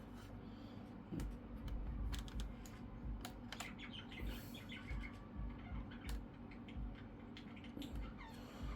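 Irregular light clicks and taps of plastic laptop parts being handled and pressed into place while a laptop keyboard is refitted.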